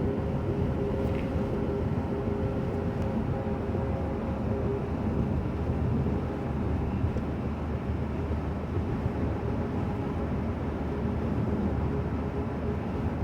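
Steady road and engine noise of a moving car heard from inside the cabin: an even low rumble of tyres and engine, with a faint steady hum that fades out about five seconds in.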